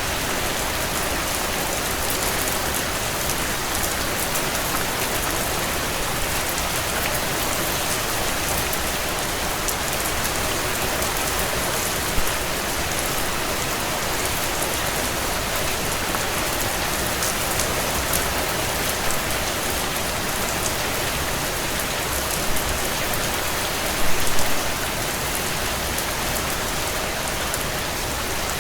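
Heavy rain falling steadily on window panes, mixed with a crackling wood fire in a stone fireplace. The fire gives a sharp pop a little under halfway through and a short cluster of louder pops near the end.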